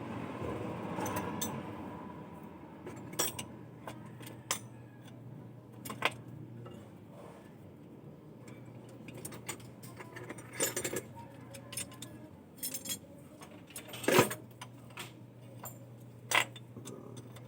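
Irregular metal clinks and taps over a steady low hum, the loudest clink about fourteen seconds in.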